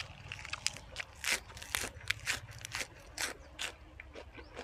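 A person chewing and crunching raw vegetables, with irregular crisp crunches about two to three a second.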